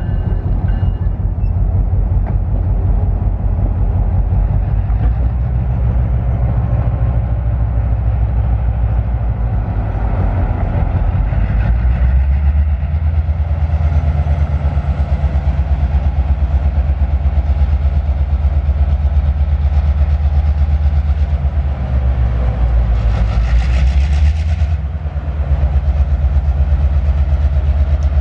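A train running close by: a loud, steady low rumble with a fast, even pulse. A short hiss rises over it near the end.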